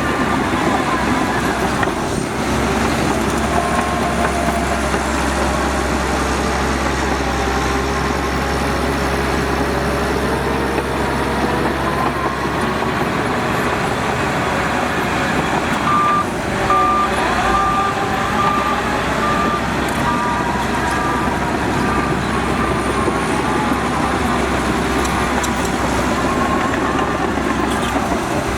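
Heavy diesel earthmoving machinery (a bulldozer and dump trucks) running steadily under load. About halfway through, a reversing alarm starts beeping about twice a second for several seconds, then fades.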